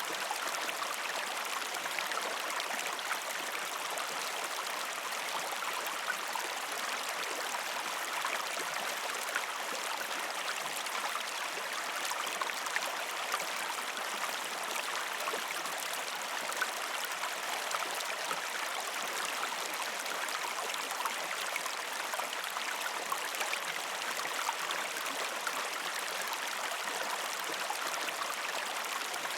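A river stream flowing steadily over rocks: an even rush of water with small splashes and trickles throughout.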